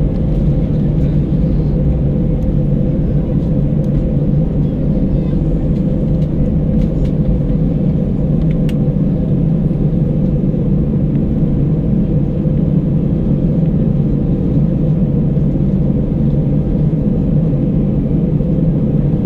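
Steady cabin noise of an Airbus A319 airliner: an even, deep rumble of the engines and airflow heard from inside the cabin.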